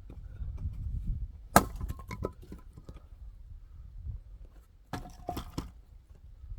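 Hand axe splitting firewood: one sharp strike with a quick run of splintering knocks after it, then another cluster of wooden knocks about three seconds later.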